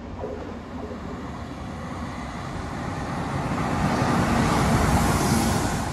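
Northern diesel multiple unit approaching and passing close by. The rumble of its engine and wheels on the rails grows steadily louder to a peak about five seconds in, then begins to fall away.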